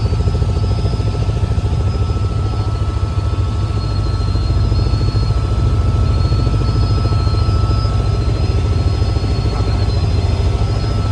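Helicopter running steadily: a loud, constant engine and rotor drone with a fast, even pulsing.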